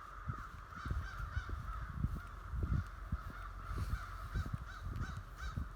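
A flock of crows cawing, many short calls overlapping several times a second, with irregular low thumps underneath.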